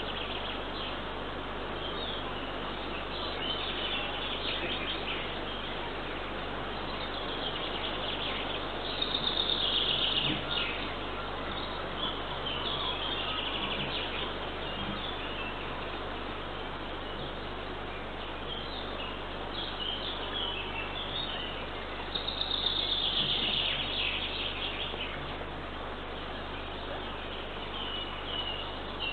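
Wild songbirds singing and chirping in short repeated phrases over a steady background hiss, with two louder bursts of song about a third of the way in and again past the middle.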